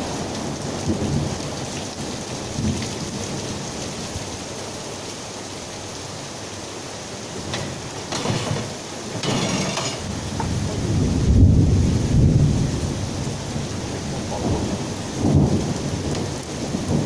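Heavy rain pouring down steadily, with low rumbles of thunder swelling over it, the loudest a little past the middle and a shorter one near the end.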